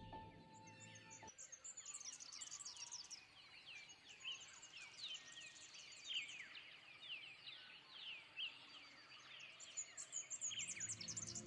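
Faint chorus of small birds: many quick downward-slurred chirps throughout, with bursts of high twittering near the start and again near the end. Music ends about a second in.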